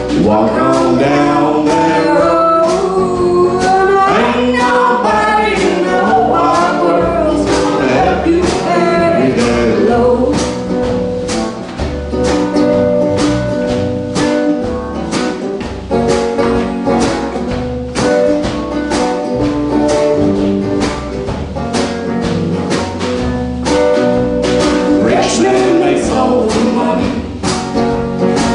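Live song with guitar and singing over a steady strummed rhythm.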